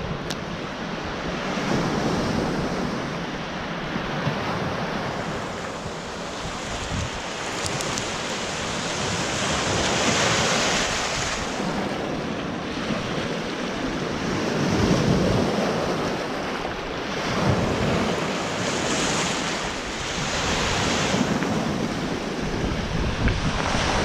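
Small waves of the Gulf of Finland washing onto the shore, the wash rising and falling every few seconds, with wind buffeting the microphone.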